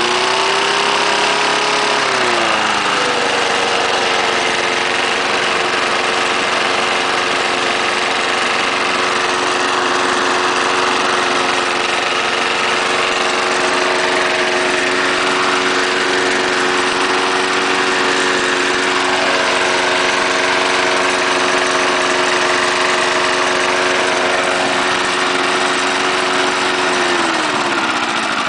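1974 Snapper walk-behind lawnmower's 3.5 horsepower Briggs & Stratton engine running, revved up at first and dropping back to a steady run about two seconds in. Near the end the throttle is pulled back and the engine slows sharply without stalling.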